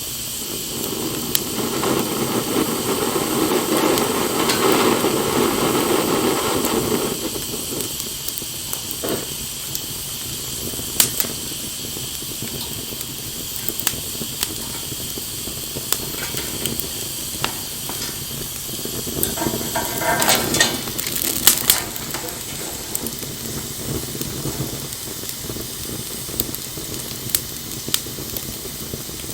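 Campfire burning with a steady hiss, broken by scattered sharp pops and crackles, a cluster of them about twenty seconds in. A louder rushing swell fills the first several seconds.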